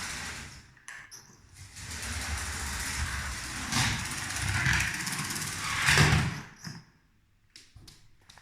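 Lego 7750 12V train locomotive running along plastic track, a steady motor and wheel rattle with a brief dip about a second in and a louder swell near six seconds. It goes quiet about seven seconds in, leaving a few light clicks.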